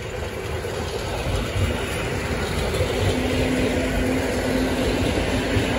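Polregio EN57 electric multiple unit running past along the station track, its rumble of wheels on rails getting louder as it nears. A steady hum sounds for a couple of seconds midway.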